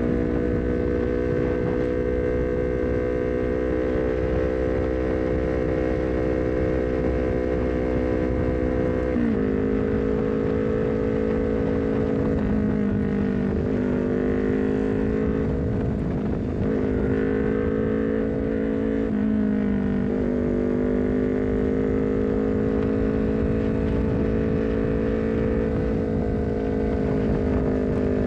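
Honda CBR250RR parallel-twin engine running through an R9 full-system header and short Leovince GP Corsa carbon silencer while riding at steady revs. The engine note drops sharply about nine seconds in, then dips and recovers a few times.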